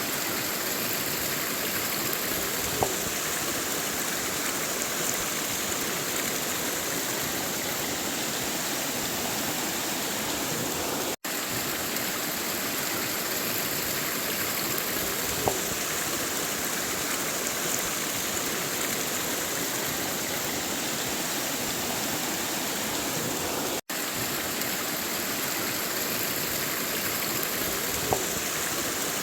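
River water rushing and flowing steadily. The flow is broken twice by a split-second gap in the sound.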